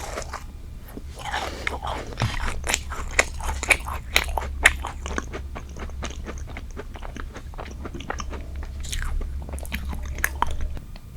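Close-miked biting and chewing of a jam-filled strawberry dessert: quick crisp crunching clicks, sharpest in the middle, easing into softer chewing, over a faint low hum.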